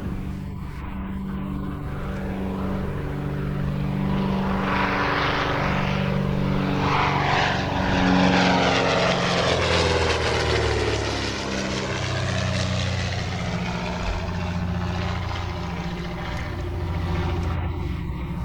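Aircraft flying past overhead: a steady engine drone, with a tone that drops in pitch as it passes through the middle.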